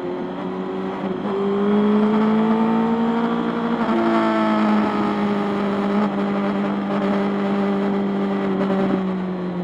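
Motorcycle engine running under way at a steady speed, its note rising gently and then stepping down about four seconds in.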